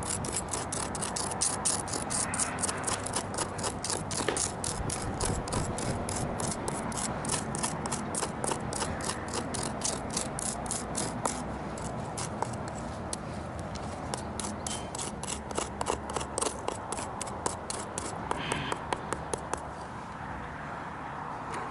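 Hand tool scraping charred wood out of a fire-burned wooden bowl blank, in quick rhythmic strokes about two or three a second, thinning out after about eleven seconds.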